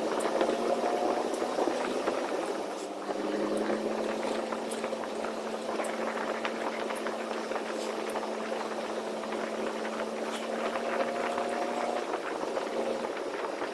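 Semi-truck driving on the highway in a snowstorm, heard from the cab: a steady engine and drivetrain hum under a continuous crackling hiss from the wet, snowy road and weather.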